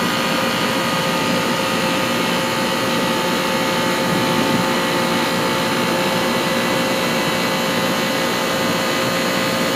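Central air conditioner's outdoor unit running steadily: an even rush of fan air with a steady hum of several tones from the compressor and motor.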